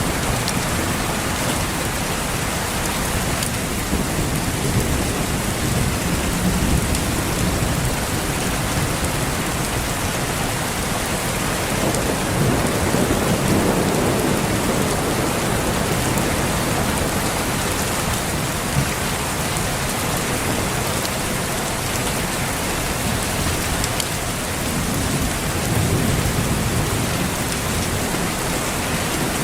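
Steady heavy rain falling on leaves and surfaces, with low rolls of distant thunder swelling up about twice, once near the middle and once near the end.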